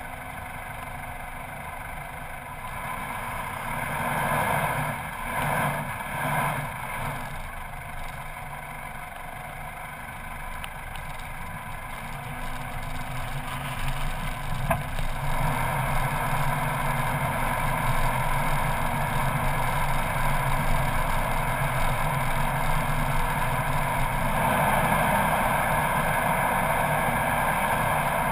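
Four-wheel-drive vehicle's engine running steadily under load while driving along a sand track, heard from the bonnet. It grows louder about halfway through and stays louder.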